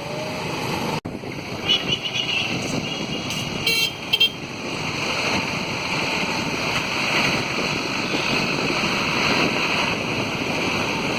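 Road traffic with vehicle horns sounding in short toots about 2 and 4 seconds in, over a steady rushing noise.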